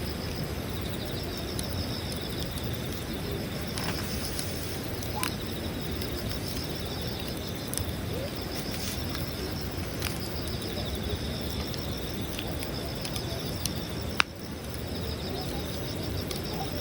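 Wood campfire crackling, with scattered sharp pops and one loud snap near the end. Insects chirp in a steady pulsing trill in the background.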